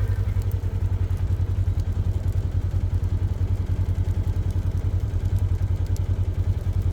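Small utility vehicle's engine running at a low, steady speed, with a low, even, rhythmic throb.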